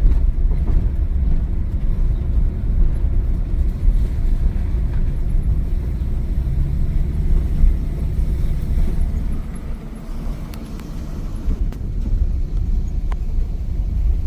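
Car driving at low speed, heard from inside the cabin: a steady low rumble of engine and tyres on the road, easing off briefly about ten seconds in.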